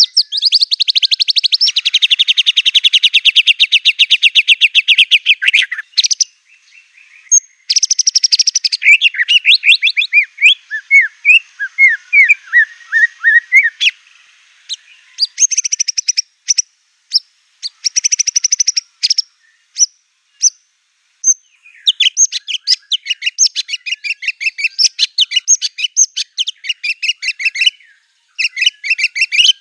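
White-rumped shama (murai batu) singing loudly: long, fast rattling trills of rapidly repeated high notes and chattering phrases, broken by short pauses and a few single sharp notes.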